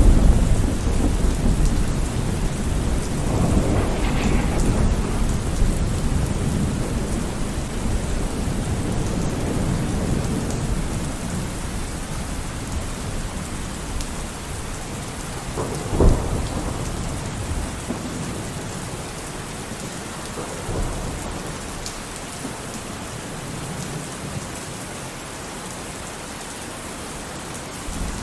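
Thunderstorm: steady heavy rain, with a low rolling rumble of thunder that is loudest at the start and dies away over several seconds. A sharp thunder crack comes about halfway through, and another rumble begins at the very end.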